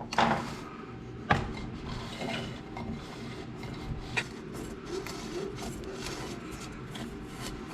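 Honda ATC185 recoil starter parts being handled and wound by hand: steady rubbing and scraping, with a few sharp clicks, the loudest about a second in.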